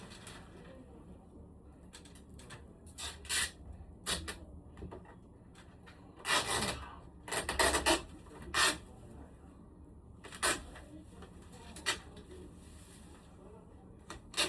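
Scattered knocks, clicks and rubbing of objects being handled, with a longer scraping rustle about six to eight seconds in.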